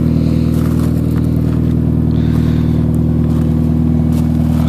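Mitsubishi Lancer Evolution IX's turbocharged 4G63 four-cylinder idling steadily through a JIC Magic full-titanium cat-back exhaust with an oval muffler.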